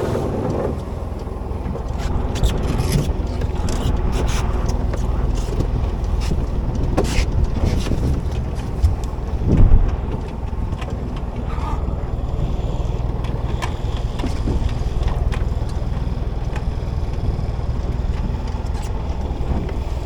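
Steady low rumble of a small boat at sea with wind on the microphone, broken by many short clicks and knocks from handling on deck, and one louder swell a little before halfway.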